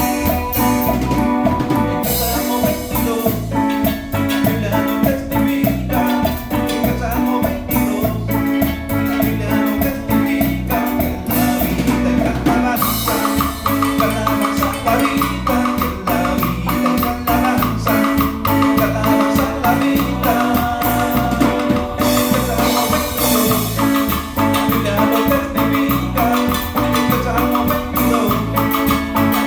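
Cumbia band playing an instrumental passage with no singing: a steady, driving percussion beat under a bass line and a bright, marimba-like melody.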